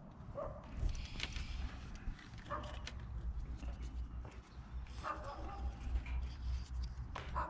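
A dog barking in the background about every two seconds, over a steady low rumble, with a few sharp clicks.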